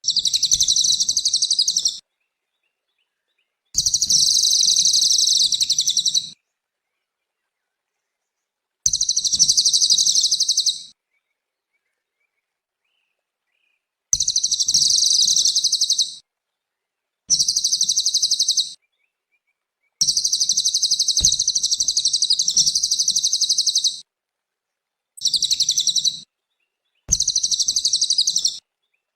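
A cililin songbird singing in repeated bursts of rapid, high-pitched trilling chatter. There are about eight phrases, each two to four seconds long, with short pauses between them.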